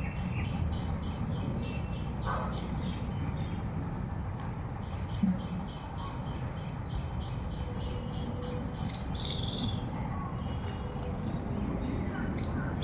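Insects and birds: a steady high insect drone with a cricket-like chirp pulsing about four times a second. Two short, sharp bird calls come about nine seconds in and near the end, over a constant low rumble.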